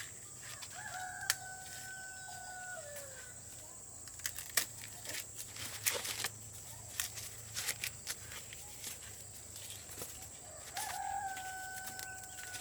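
A rooster crowing twice, about ten seconds apart, each crow a long held note that drops away at the end. Scattered sharp clicks and knocks come between the crows.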